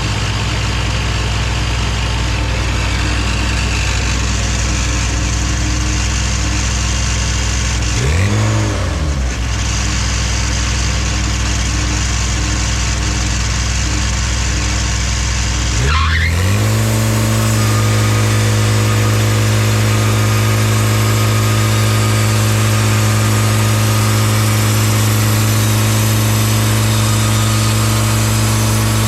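Sawmill's engine running steadily. About eight seconds in its speed dips briefly and comes back, and about sixteen seconds in it rises to a higher, steady speed.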